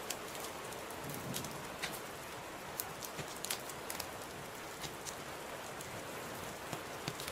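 Wood fire in a fireplace crackling: a steady hiss with scattered sharp pops.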